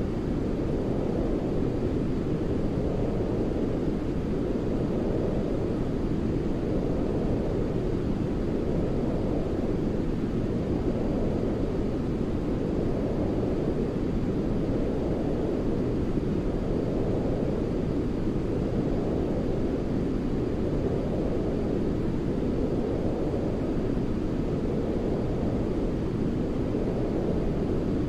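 Continuous white noise for baby sleep: a deep, low-heavy rush like brown noise, with little energy in the high end. It swells and eases gently about every two seconds.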